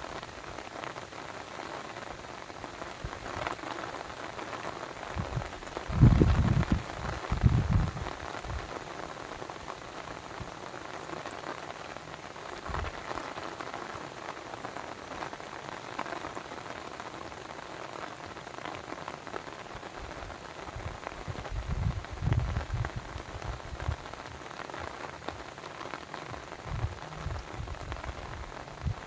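Steady rain pattering, with a few short low rumbles about six to eight seconds in and again later.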